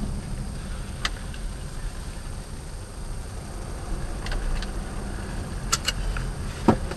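Steady low rumble of a vehicle running, with a few short sharp clicks or knocks; the loudest knock comes near the end.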